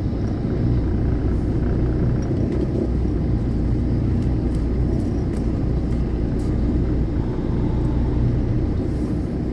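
Semi-truck's diesel engine running at low speed, a steady low rumble.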